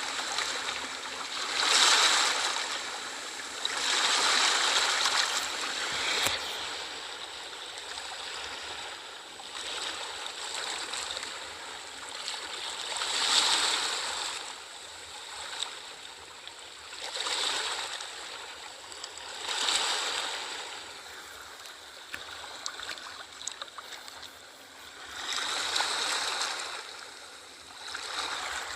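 Sea waves breaking and washing in: a hissing surge that swells and fades every few seconds at an uneven pace.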